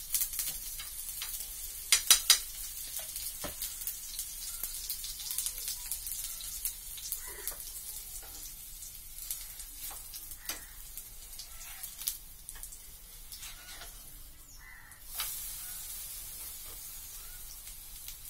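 Ragi adai (finger-millet flatbread) frying in ghee in a frying pan on a gas stove, sizzling steadily, with sharp clicks and scrapes of a metal spatula against the pan. The loudest clicks come in a quick cluster about two seconds in.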